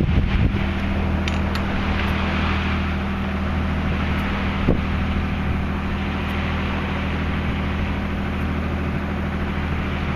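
Sailboat's engine running with a steady low drone, under the rush of water and wind on the microphone.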